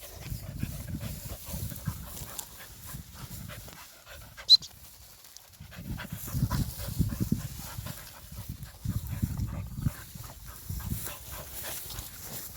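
A dog panting hard in quick spells, with a single sharp click about four and a half seconds in.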